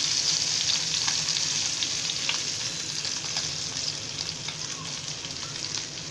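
Parshe fish frying in hot oil in a pan: a steady sizzling hiss with scattered small crackles, slowly getting quieter.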